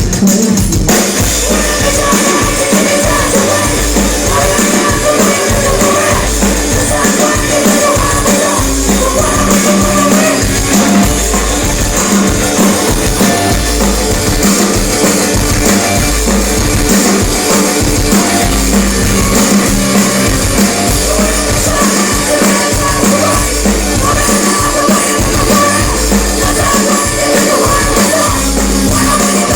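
Live punk rock band playing loud and fast, with a pounding drum kit and vocals.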